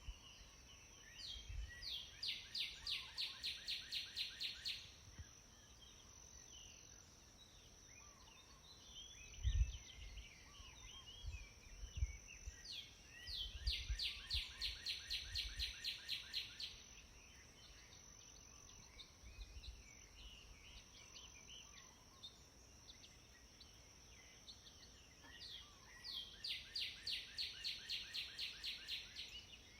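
Birdsong: one bird repeats a fast series of about fifteen evenly spaced notes three times, roughly every twelve seconds, with fainter chirps from other birds between and a steady high hiss underneath. A few low thumps come in the middle.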